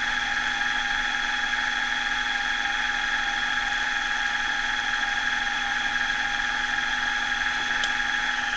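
Milling machine spindle running steadily at constant speed, a steady hum with a high whine.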